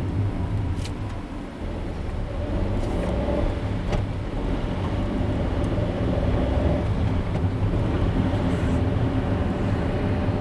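A car driving: a steady low engine hum and road noise. It dips briefly about a second and a half in, then builds back up, with a couple of faint clicks.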